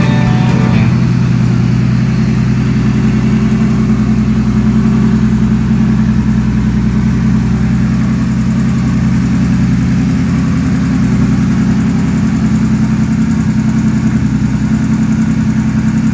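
Ford ED Falcon 4.0-litre straight-six engine on a generator set, running at a steady speed through extractors and an upright muffler. The sound is even and constant, with no revving. Music fades out about a second in.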